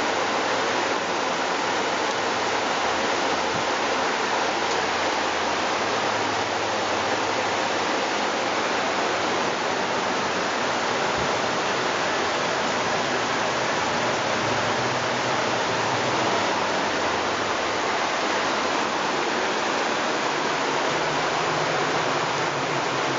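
Rainwater cascading down a stepped street staircase like a waterfall: a steady, unbroken rush of water.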